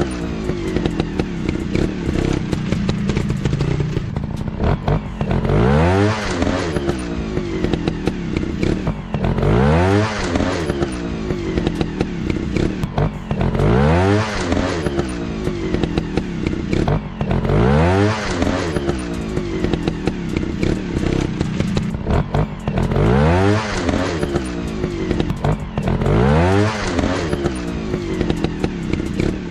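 Dirt bike engines revving again and again, a rising rev about every four seconds over a steady engine drone.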